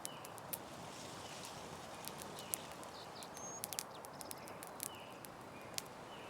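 Campfire crackling with irregular sharp pops over a steady hiss, with short bird chirps and a brief whistle now and then.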